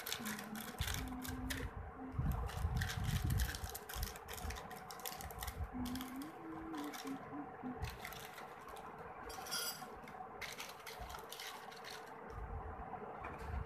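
Plastic snack packet crinkling as it is cut open, with dry crunchy Kurkure pieces rattling, in a dense run of short clicks and crackles, busiest in the first few seconds, over a faint steady hum.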